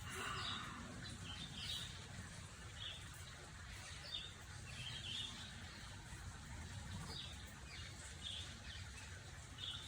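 Birds chirping faintly in the background, short scattered chirps over a low steady background noise.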